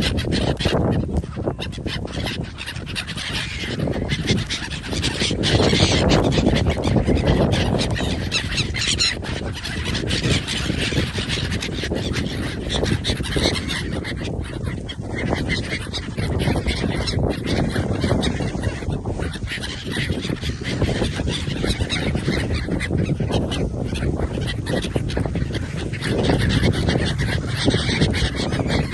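Geese honking continuously.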